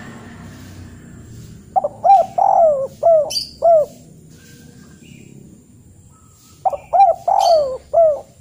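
A bird calling: a phrase of about five short notes, given twice.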